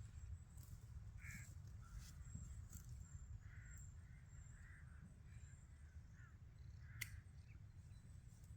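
Faint, distant bird calls: a loose series of short calls over a low steady rumble, with a single sharp click about seven seconds in.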